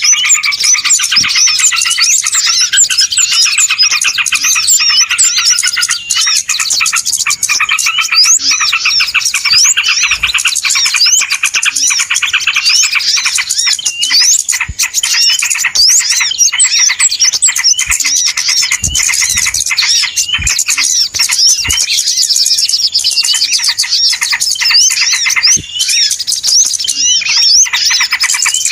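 A dense, noisy chorus of many small birds chirping rapidly over one another without pause: a bird-lure call recording played to draw small birds in.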